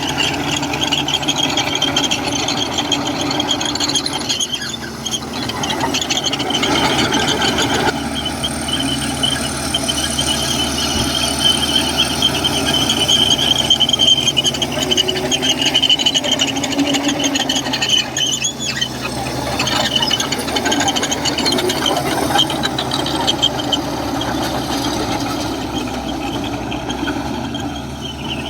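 Komatsu crawler bulldozer working, its diesel engine running under a steady high-pitched metallic squeal.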